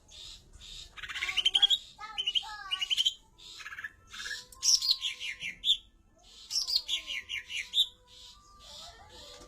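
A songbird singing a varied, melodic song of quick chirps and trills, with runs of rapidly falling notes about halfway through, over a steady background of high chirping.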